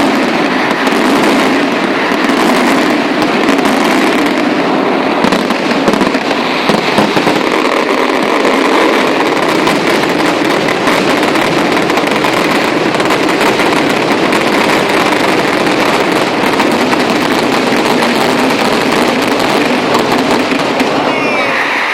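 A fireworks display going off in a dense, continuous barrage of crackling bangs, with a few whistles near the end.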